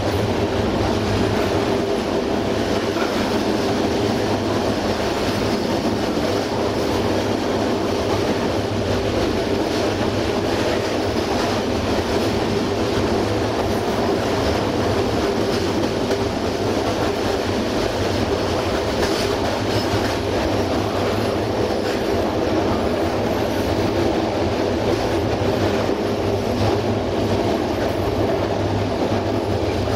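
Passenger train running steadily along jointed single-track rail: a continuous rumble of wheels on rail with the clickety-clack of rail joints.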